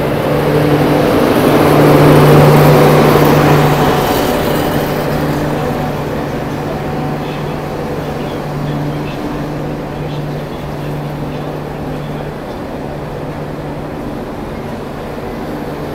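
Passenger train pulling in alongside the platform: a broad rumble swells to its loudest about two to three seconds in and then slowly dies away, over a steady low hum that breaks off now and then.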